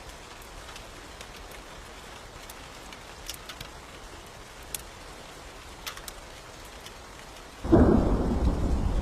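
Steady rain with a few sharp isolated pops, then a sudden loud thunderclap near the end that keeps rumbling.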